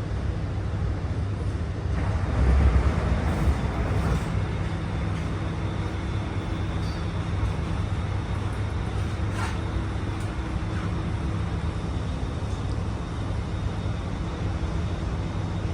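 SMRT R151 train standing at a platform with its doors open: a steady low hum from the train's onboard equipment. A louder rush of noise comes about two to four seconds in.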